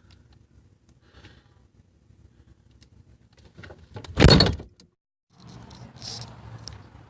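A door shutting with one loud thump about four seconds in, lasting about half a second, amid low room noise and a few small clicks and knocks.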